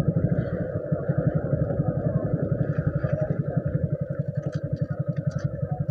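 Motorcycle engine idling with an even, rapid thump of about ten beats a second.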